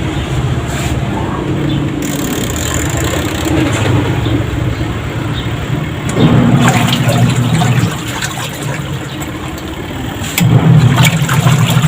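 Washing machine wash motor churning water in the tub with a low hum. The motor comes on strongly about six seconds in, drops off after under two seconds, and starts again near the end. This is the newly replaced timer switch stopping and restarting the wash, now with reverse.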